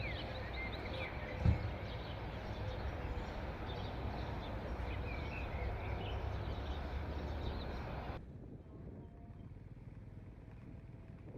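Outdoor ambience of birds chirping over a low, steady rumble, with one sharp knock about a second and a half in. About eight seconds in, it cuts to a quieter, duller background.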